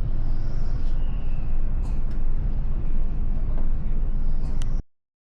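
Steady low drone of a passenger ship's engines and machinery, heard aboard; the sound cuts off suddenly near the end.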